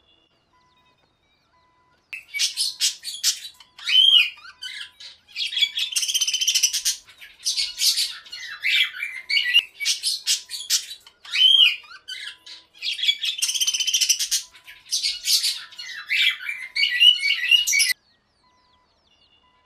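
Bird calls: quick, high-pitched chirps and squawks starting about two seconds in. The same run of calls, about seven seconds long, is heard twice.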